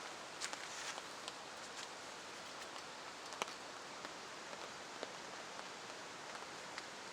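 Steady rain hiss, with scattered single drops tapping close by; the sharpest tap comes about three and a half seconds in.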